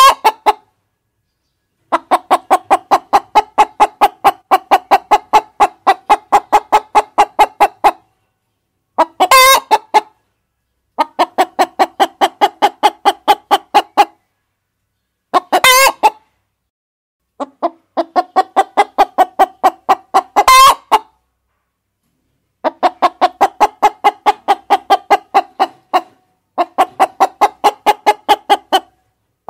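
Hens clucking in fast, even runs of about three to four clucks a second, each run lasting a few seconds and broken off by short silences. About every five seconds a short, louder call cuts through.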